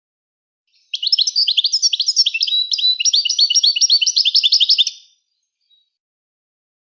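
European goldfinch singing: one phrase of quick, repeated high chirps and twitters lasting about four seconds, starting about a second in.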